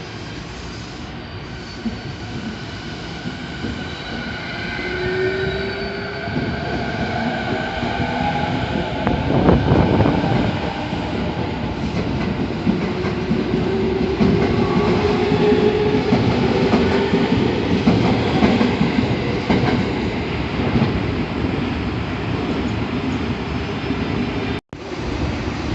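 A train running past along the platform, getting louder a few seconds in. Its wheels clatter over the rail joints under drawn-out, gliding metallic tones. The sound cuts out for an instant near the end.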